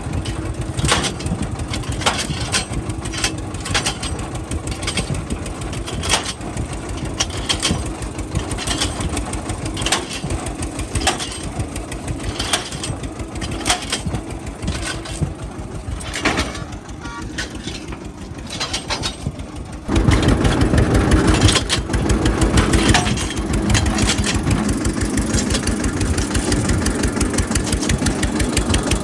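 Tractor diesel engine running, with scattered clicks and knocks over it. About twenty seconds in, the engine gets suddenly louder and stays louder.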